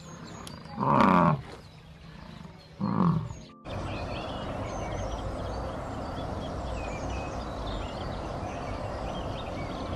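American bison bellowing twice, short loud growling calls about two seconds apart. These give way to a steady rushing background with faint high chirps.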